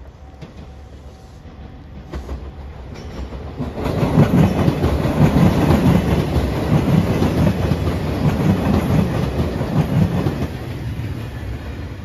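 JR Shikoku 2700 series diesel limited express train approaching and passing close by. It grows louder over the first few seconds, holds a loud, rhythmic clatter of wheels over the rail joints, then eases off near the end.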